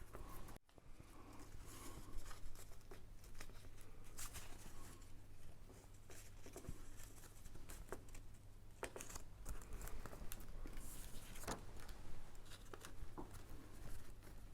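Faint rustling, crinkling and light taps of paper and card being handled and stuck down by hand, over a steady low electrical hum.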